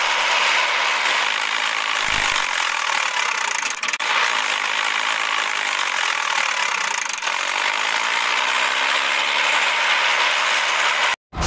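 A small toy vehicle's geared electric motor, running as a steady dense whirr of gears, which cuts off suddenly shortly before the end.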